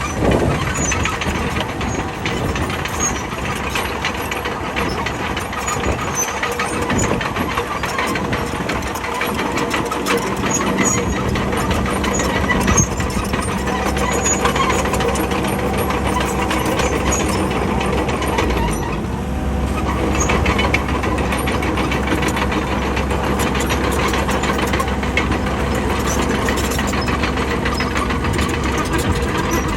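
Bulldozer's diesel engine running steadily under load, with frequent clanking and rattling. About two-thirds of the way in, the low engine drone grows stronger.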